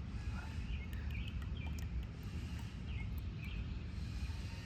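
Outdoor background: a steady low rumble with a few faint bird chirps scattered through it.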